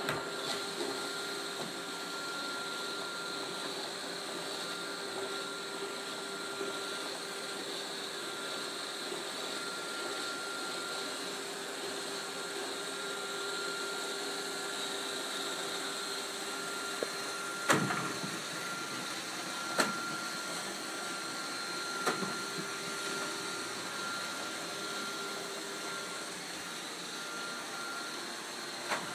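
iRobot Roomba 532 robot vacuum running with a steady whirring hum. Several sharp knocks come in the second half, a couple of seconds apart.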